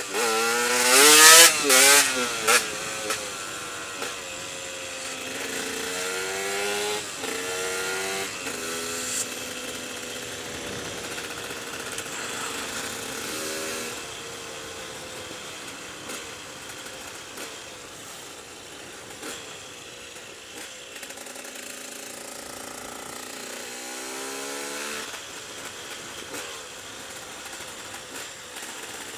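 KTM EXC 125's two-stroke single-cylinder engine on the move: hard acceleration right at the start, revving up in several quick rising sweeps through the gears, then running at steadier, lower revs, with more rising sweeps as the rider accelerates again later on.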